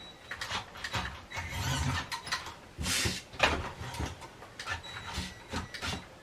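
Small toy-grade RC truck's electric motor and gears running in short stop-start bursts, with irregular knocks and clatter of the plastic truck as it climbs up onto an obstacle.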